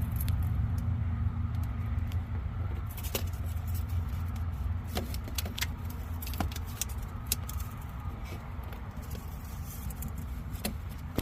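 Scattered light metallic clicks and clinks from working the oil filter loose under a pickup truck, over a steady low rumble.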